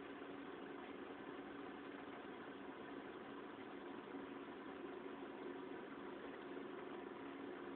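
Car engine idling steadily, heard from inside the cabin as a low, even hum with no change in speed.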